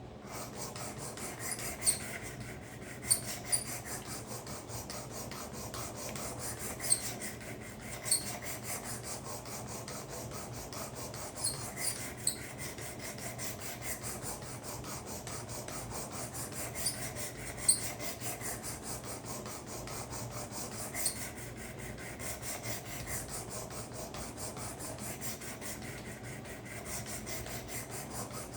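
Knife blade stroked over the 320-grit abrasive of a Work Sharp guided sharpening system: steady, rapid rasping strokes at the edge, with a few sharp clicks scattered through.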